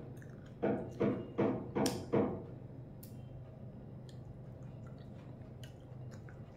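Close-up chewing of a mouthful of food, four rhythmic chews in quick succession in the first half, then softer wet clicks and squishes of fingers mixing rice on a plate.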